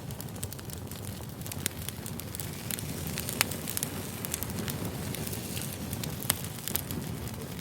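Campfire crackling: a steady low rush of burning wood, dotted with frequent sharp pops and snaps.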